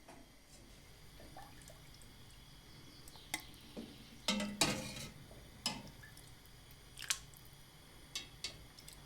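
Scattered light clicks and knocks, with a louder clatter about four and a half seconds in, in a small room.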